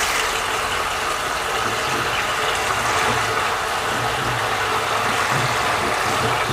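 Boneless chicken pieces sizzling steadily in hot oil, freshly dropped into the pan for frying.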